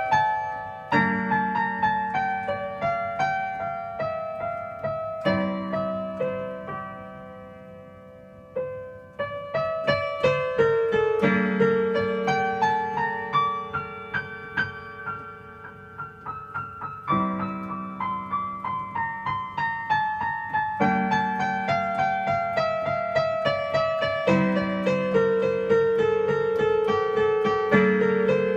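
Piano music: a steady run of single notes over low chords that change every four to six seconds. The playing thins and fades about six seconds in, then resumes fuller about three seconds later.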